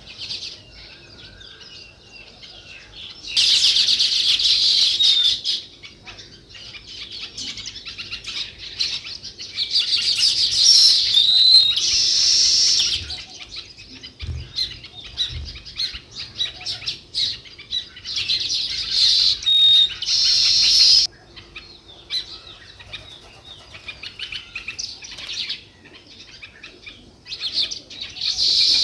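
A flock of sparrows chirping and chattering together. Loud, dense bursts of overlapping chirps come several times, with quieter stretches of scattered single chirps between them.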